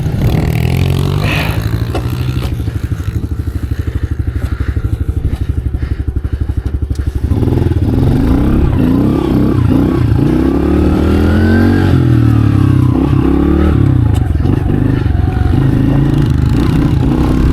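110cc pit bike engine idling with a rapid even beat, then about seven seconds in getting louder and revving up and down.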